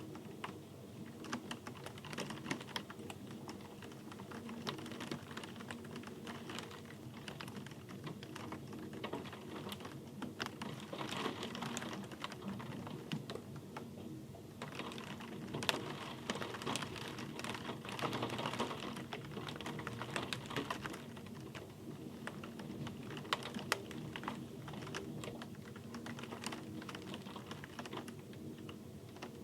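Rain falling, with dense, irregular drops ticking on a hard surface, growing a little thicker in the middle.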